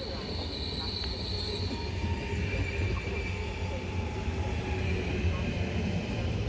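Train moving along the rails with a steady low rumble, its steel wheels squealing in a high thin tone that drops to a lower pitch about two seconds in.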